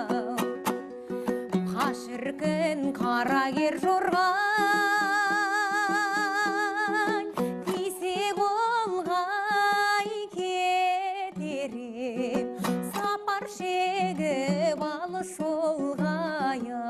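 A woman singing a Kazakh song over a plucked-string accompaniment. Around the middle she holds long notes with a wide vibrato.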